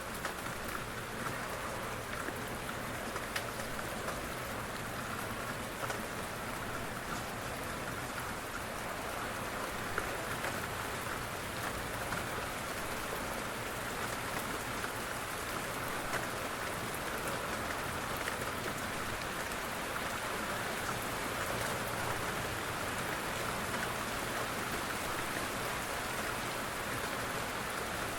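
Steady rain falling on a surface, a constant hiss with many separate drop ticks scattered through it.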